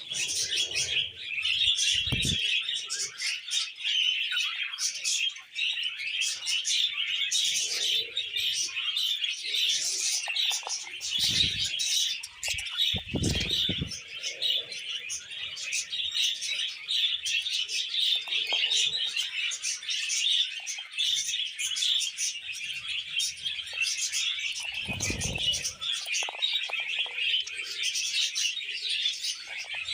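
A pair of budgerigars warbling together: an unbroken stream of fast, chattering song full of quick clicks and squeaks. A few low thumps break in, two close together about a third of the way through and one more near the end.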